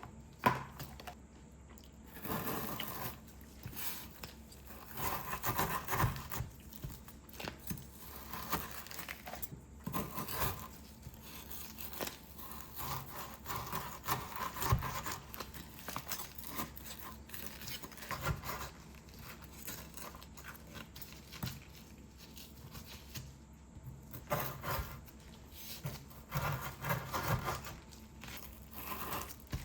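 Irregular scraping and rubbing sounds with a few light knocks.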